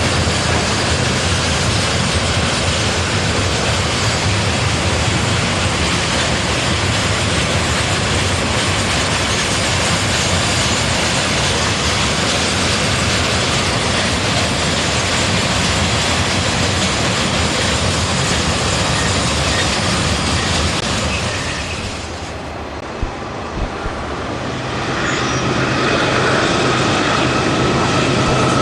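Railway noise from a passing diesel train, dense and steady, for most of the stretch. It drops away after about twenty seconds with a couple of clicks. Then a diesel locomotive's engine runs with a steady low hum and a steady high tone.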